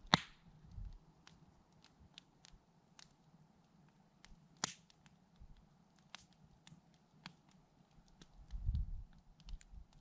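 Campfire wood crackling, with irregular small pops and two louder snaps, one right at the start and one about halfway through. A low rumble swells near the end.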